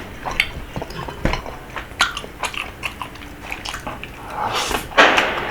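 Close-miked chewing and biting of rabokki, with the fish cake being eaten. There are many short sharp clicks throughout and a louder rushing sound about four and a half seconds in.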